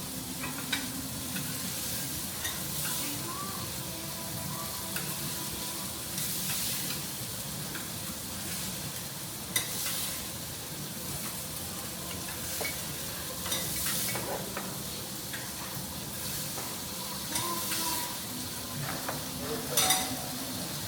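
Salmon frying on a teppanyaki steel griddle, a steady sizzle, with a few sharp clicks of a metal spatula against the plate.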